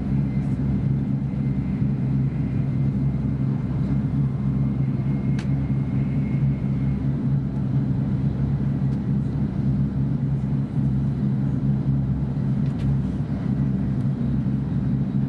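W7 series Shinkansen train running, heard from inside the passenger cabin as a steady low rumble with a few faint clicks.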